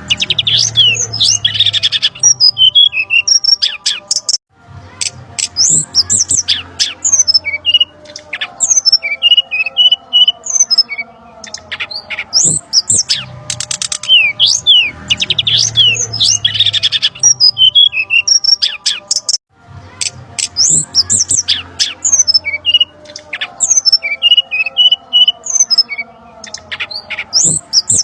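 Brown-chested jungle flycatcher calls played as a bird-trapping lure: dense, busy bursts of high chirps and quick downward-sliding whistles. The recording loops, repeating about every fifteen seconds with a brief break.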